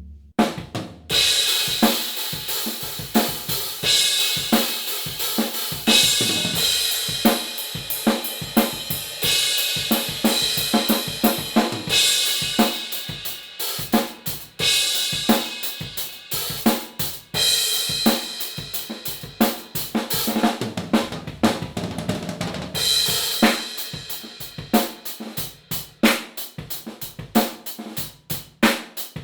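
A drum kit played with kick drum, snare, hi-hat and crash cymbals, starting about a second in, with a cymbal crash every couple of seconds. It is recorded through a budget Phenyx Pro PTD-10 drum mic set, dry with no EQ.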